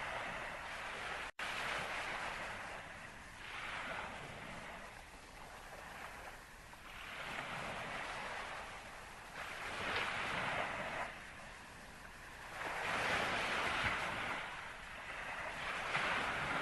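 Waves washing in irregular surges, swelling and fading every two to four seconds, with a brief cut-out in the sound about a second in.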